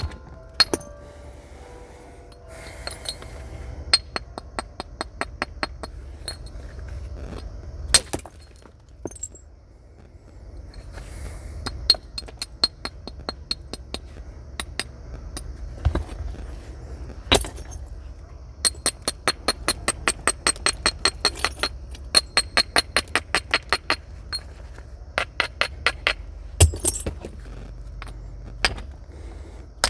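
Flint being knapped with natural tools: a series of sharp, glassy stone clicks. There are runs of quick light taps at about five a second and a few louder single strikes.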